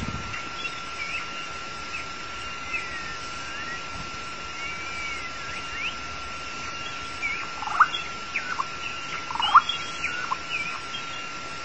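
White-rumped shama singing: scattered whistled notes that glide up and down, with a louder run of notes about eight and nine and a half seconds in, over a steady thin high tone.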